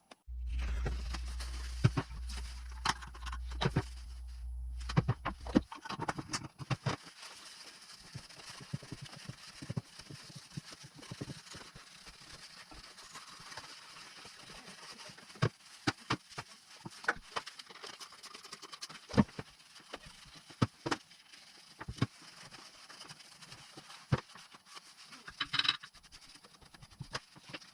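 Tools and metal motorcycle engine parts clinking, tapping and knocking as they are handled during engine assembly: many short, irregular clicks over a steady hiss. A low hum sounds for the first five seconds or so, then stops.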